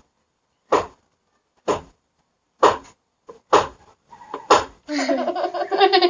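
Sharp knocks or claps, one about every second, then a person breaking into laughter about five seconds in.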